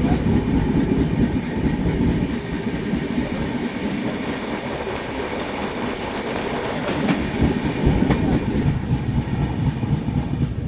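Railway train running on the rails: a steady low rumble of wheels with a dense clatter over the rail joints.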